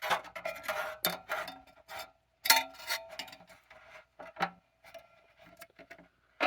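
Irregular taps, clicks and scrapes of a measuring tool against the sheet metal fan blades and housing of a Hoover Model O vacuum cleaner, some knocks ringing briefly. The loudest knock comes about two and a half seconds in, and the handling grows sparser in the second half.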